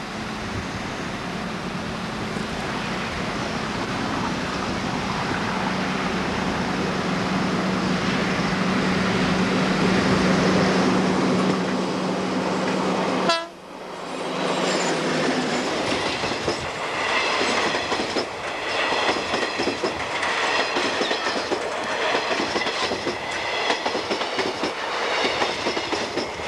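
General Electric 2-C-C-2 'V8' electric locomotive hauling a passenger train past: a steady hum that grows louder as it approaches, cutting out briefly about halfway. Then the passenger cars roll by with a rhythmic clickety-clack of wheels over the rail joints.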